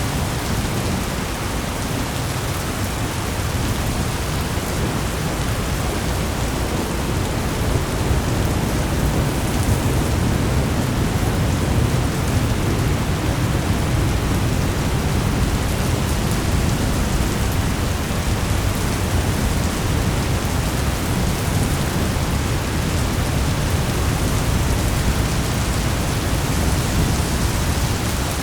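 Thunderstorm ambience: steady heavy rain with low rolling thunder that swells about a third of the way in, then eases.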